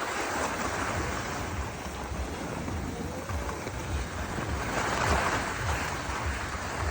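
Wind buffeting the microphone with a rushing noise that swells twice, near the start and about five seconds in.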